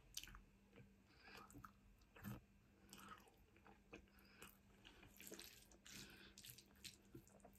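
Faint chewing of a mouthful of tagliatelle in bolognese sauce: soft, scattered wet mouth smacks and small clicks, a slightly louder one a little over two seconds in, over a faint steady hum.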